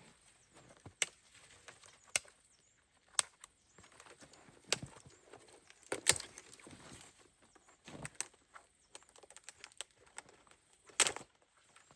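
Irregular sharp knocks and crunches, about half a dozen spread over several seconds with a faint rustling between them, the loudest near the middle and near the end.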